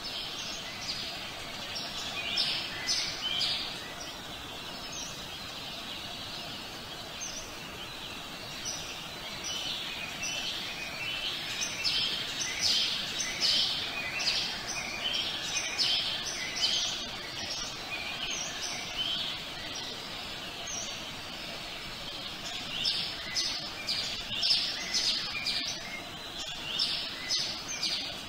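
Small songbirds chirping over a steady outdoor ambience hiss, the chirps coming in busy spells with quieter stretches between.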